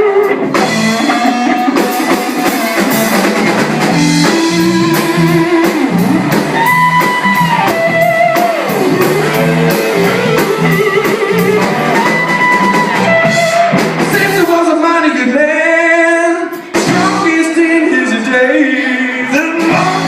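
A live rock-blues band plays an instrumental break: a lead guitar solo with held, bending notes over a steady drum beat. The solo wavers heavily about three quarters of the way through.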